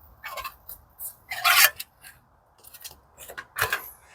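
Short scraping and rubbing strokes of a metal tool on metal, several in a row with the strongest about one and a half seconds in.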